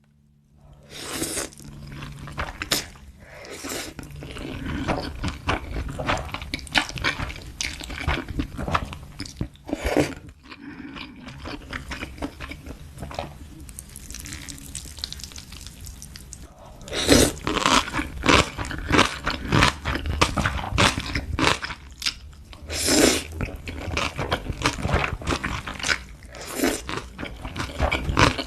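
Close-miked eating sounds: a run of chewing and biting with crisp crunches, from a meal of instant ramen noodles, sausage and kimchi. The bites grow louder in the second half.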